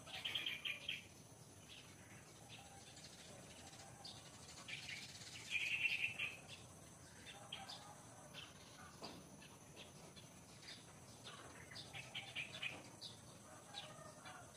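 Birds chirping in short scattered calls, with two louder bursts of rapid chirping, one at the very start and one about six seconds in.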